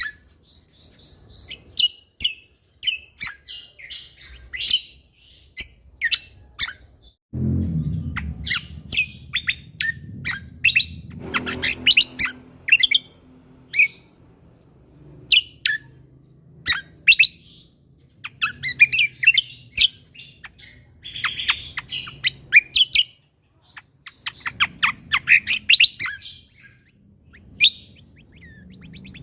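Cucak kombo (greater green leafbird) singing a rapid, varied series of sharp chirps and short whistled notes. A low background rumble comes in about a quarter of the way through.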